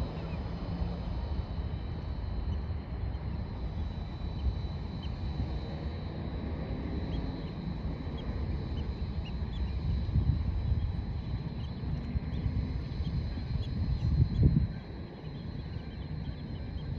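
Faint, scattered short bird calls over a steady low rumble, with a louder swell of the rumble about 14 seconds in.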